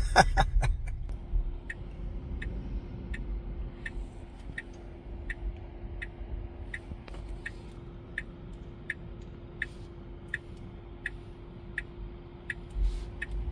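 Car turn-signal indicator ticking at an even pace, about three ticks every two seconds, as the car signals for a lane change. It sounds inside the cabin over a low road rumble and a faint steady hum.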